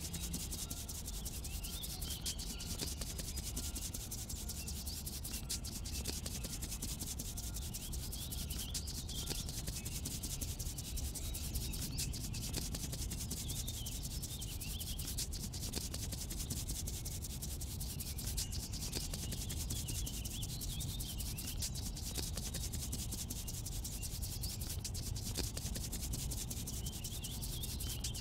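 Steady scratchy rubbing of a paintbrush stroking paint onto paper, run on as the letter is coloured in.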